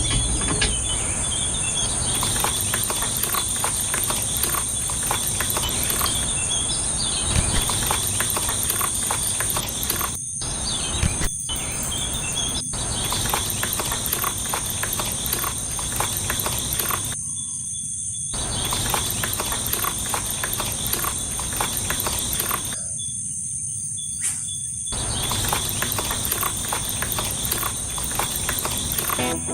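Insects, crickets, trilling steadily at a high pitch, over a constant patter of small clicking and scraping sounds. The patter drops out briefly a few times.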